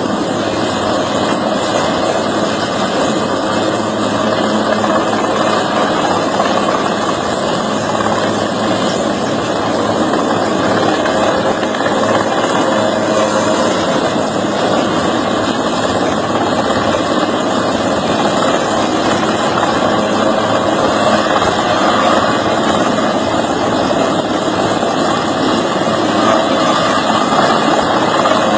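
A steady, loud engine drone that holds unbroken throughout, with no clear change in pitch.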